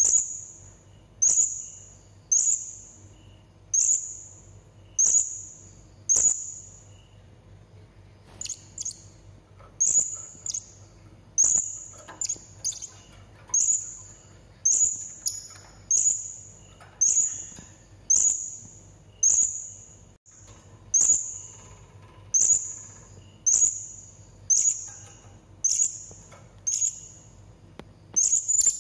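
Blue-crowned hanging parrot (serindit) calling: short, shrill, high-pitched notes repeated about once a second, each starting sharply and trailing off, with a few notes doubling up in the middle.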